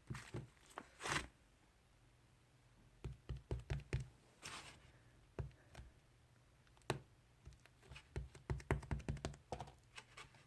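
Hands pressing and kneading a clear slime, making clusters of small sticky clicks and pops with soft squishes. There are short pauses between the handfuls.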